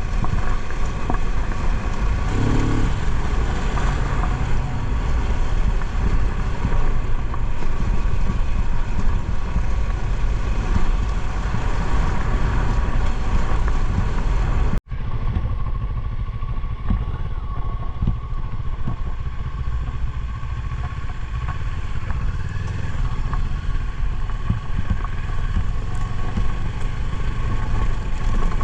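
Motorcycle engine running steadily while riding, with wind buffeting the microphone. The sound cuts out for an instant about halfway through, then the ride noise carries on.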